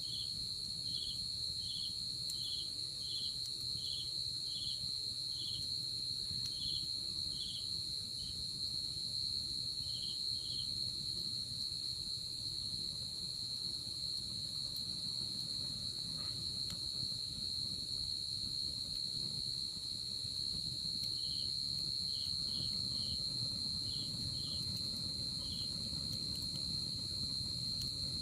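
Night insects calling: a steady, unbroken high trill, with a second insect giving short chirps a bit under twice a second that stop for about ten seconds midway and then start again.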